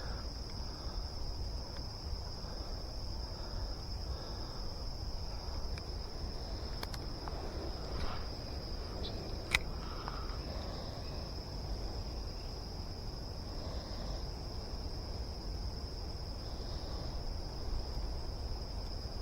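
Steady high-pitched chorus of insects, crickets or katydids, over a low outdoor rumble, with a few faint clicks in the middle.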